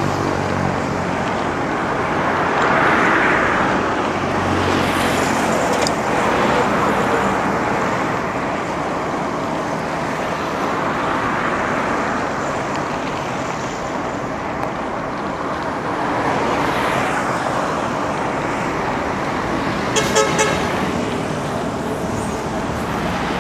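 Busy road traffic heard from a bicycle in the flow: a steady roar of engines and tyres that swells as vehicles pass. Near the end a vehicle horn gives three quick beeps.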